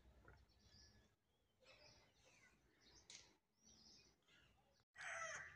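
Near silence with a few faint, short bird chirps. Near the end the outdoor background noise steps up suddenly.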